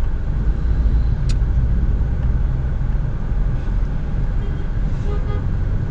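Steady low rumble of a car idling in stop-and-go traffic, heard from inside the cabin, with a single sharp click about a second in.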